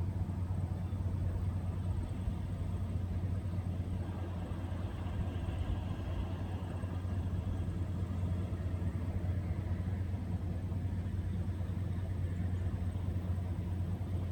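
Truck engine running with a steady low rumble that holds evenly throughout.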